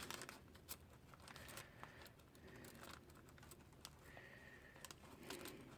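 Near silence with faint, scattered small clicks and taps from hands handling paint materials while saving leftover paint on parchment paper.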